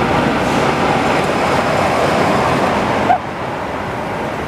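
Loud, steady rushing of wind and mechanical rumble from a moving amusement ride, cut off suddenly about three seconds in by a quieter background.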